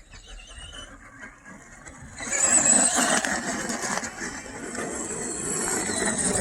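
Brushed-motor RC monster trucks driving, their electric motors and gears whining, starting about two seconds in after a quiet stretch.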